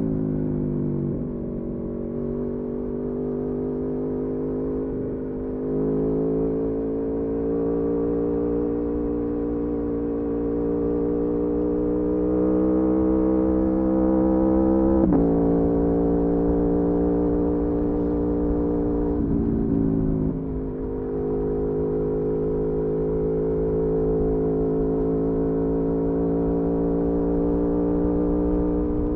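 Aprilia Tuono V4 motorcycle's V4 engine running at a steady cruise, its pitch creeping slowly upward, with an abrupt drop in pitch about 15 seconds in as it shifts up and a brief throttle-off dip a few seconds later before it pulls again. A low rumble of wind noise runs beneath it.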